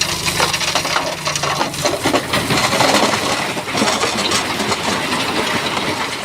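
Stones and rock clattering and grinding as a bulldozer pushes them, with the machine's diesel engine running low underneath.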